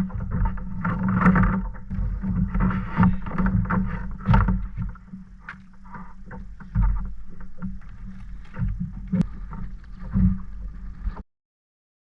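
Irregular knocks and rustling of handling on a plastic pedal-drive kayak, over a steady wind rumble on the microphone. The sound cuts off abruptly about a second before the end.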